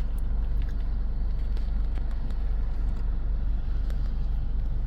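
Steady low rumble of a car heard from inside the cabin, with a few faint ticks over it.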